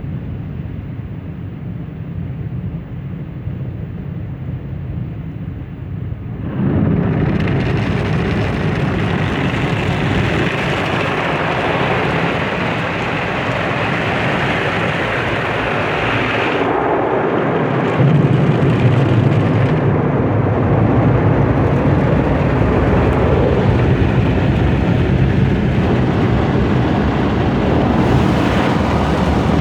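Tammermatic T700 rollover car wash working over the car, heard from inside the cabin: a low rumble, then about six seconds in a loud rush of water spray hits and keeps going, with a deeper machine drone joining from about eighteen seconds in.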